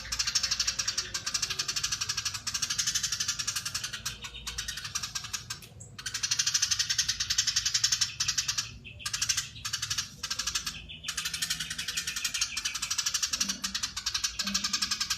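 Eurasian tree sparrow giving long, dense chattering runs: a very rapid rattle of high notes, broken by a few brief pauses in the middle.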